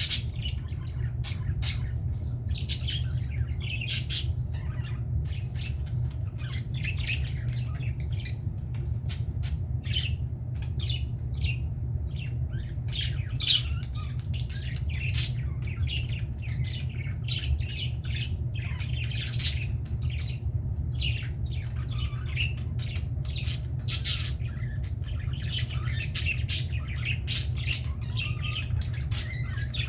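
A flock of budgerigars chattering, with dense short chirps and squawks throughout, over a steady low hum.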